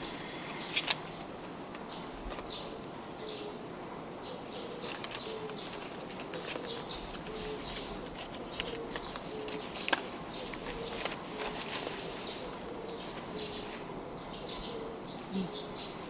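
Outdoor ambience with birds chirping in short repeated calls. There are a few sharp clicks: two close together about a second in, and a louder one about ten seconds in.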